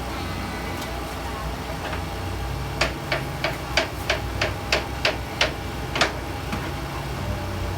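A run of about ten sharp knocks, about three a second, over a steady low hum.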